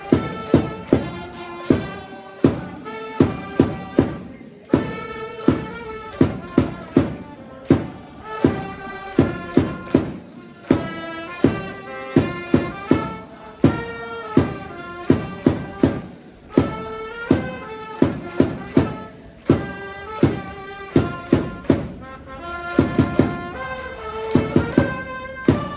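Japanese baseball cheering section playing a player's cheer song on trumpets over a steady, driving drum beat, with fans chanting along.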